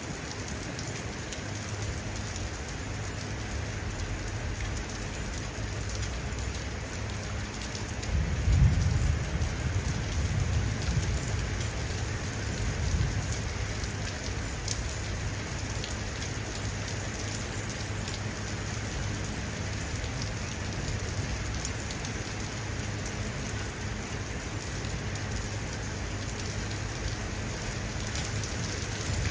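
Steady rain falling, with a low rumble of thunder swelling about eight seconds in and fading over a few seconds.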